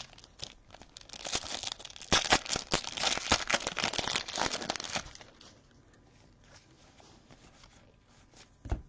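Foil trading-card pack wrapper crinkling and tearing as it is opened, a dense crackle lasting about four seconds, followed by faint handling and a short knock near the end.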